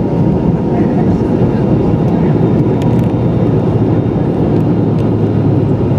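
Steady cabin noise of a McDonnell Douglas MD-83 jetliner rolling on the ground after landing: a loud, even rumble with a steady engine whine from its rear-mounted turbofans.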